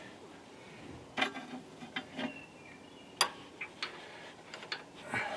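Scattered sharp clicks and metallic clinks, about half a dozen, a few ringing briefly: hand tools and metal parts being handled during a hydraulic hose repair.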